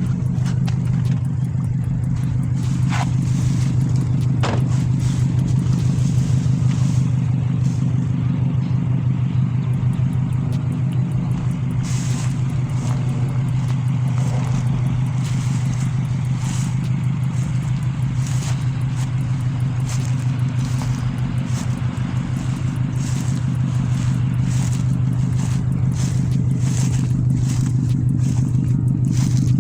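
Straight-piped Subaru Impreza WRX's turbocharged flat-four running at a steady, unchanging speed with a deep, even drone. Scattered short clicks and crackles sound through it.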